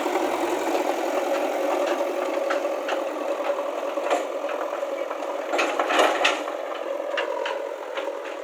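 A vehicle engine running steadily with a rattle, and scattered clicks and knocks, several together about six seconds in.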